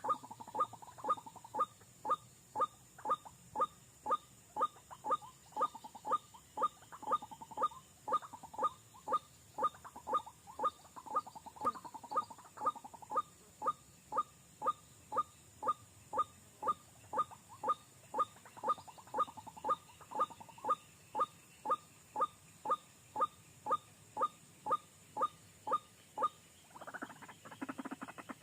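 White-breasted waterhen (ruak-ruak) calling: a long, monotonous run of short, sweeping calls at about two a second, stopping shortly before the end.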